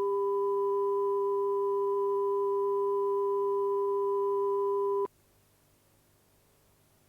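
Steady electronic tone of several fixed pitches, the lowest the strongest, cutting off suddenly about five seconds in and giving way to near silence.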